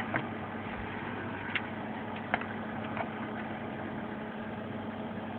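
A 350-watt dehumidifier converted into an air conditioner running: a steady hum of its compressor and fans, with a few faint clicks.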